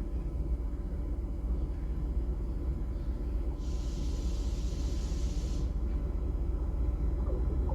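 Train rumbling, with a hiss of air lasting about two seconds midway, then growing louder with rattling wheel-on-rail noise near the end as it draws closer.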